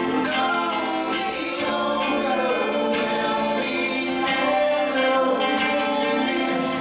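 Church congregation and worship band singing a contemporary worship song together, with sustained held notes.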